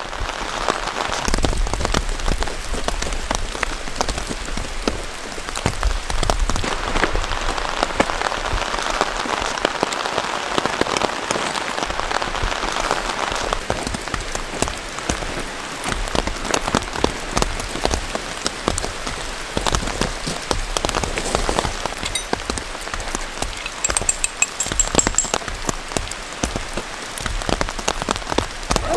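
Heavy rain falling steadily, with many sharp individual drop hits over a continuous rush.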